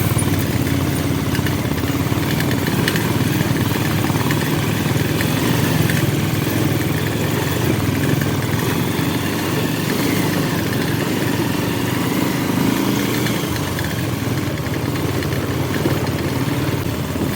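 Motorcycle engine running steadily while riding, at an even level throughout.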